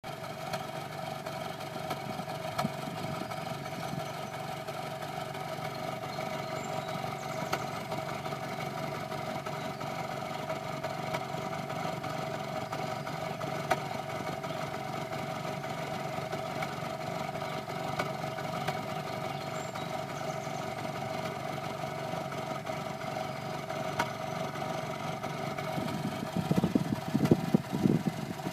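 Exhaust of a 2001 Honda Accord's four-cylinder engine idling, recorded at the tailpipe: a steady hum with an irregular bubbling from the pipe. Near the end the exhaust grows louder with uneven low puffs.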